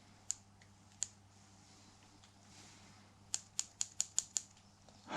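Small sharp clicks from handling the opened handlebar switch gear of a Yamaha Virago XV250: two single clicks, then a quick run of six at about five a second.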